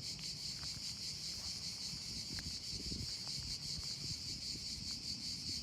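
Insects chirring steadily in a high, even drone with a faint fast pulse, over a low irregular rumble.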